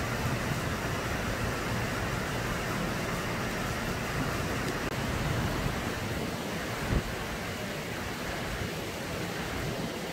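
Heavy rain falling steadily, an even hiss, with a low rumble that fades out about six seconds in and a single short knock about seven seconds in.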